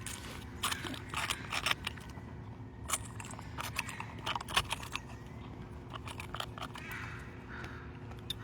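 Potato chips crackling and crunching in quick clusters of sharp clicks while a gull is fed.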